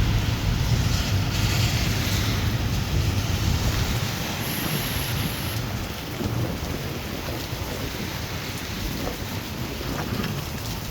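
Steady rain falling, with a long low rumble of thunder that dies away after about four seconds.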